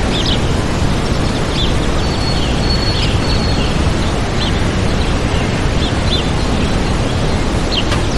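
Waterfall rushing steadily, with small birds chirping over it in short, scattered calls and one brief held whistle about three seconds in.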